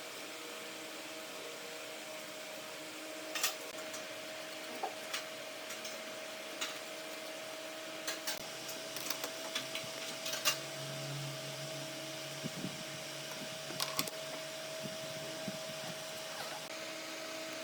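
Steady hum of a running workshop machine motor, with scattered sharp knocks and clicks over it, the loudest about three and a half seconds in and again about ten and a half seconds in.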